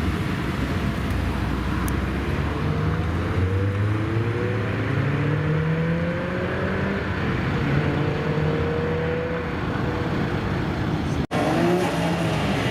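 Car engine accelerating away, its note rising steadily over several seconds, over the low rumble of other running engines. A sudden break near the end, after which another engine is heard revving.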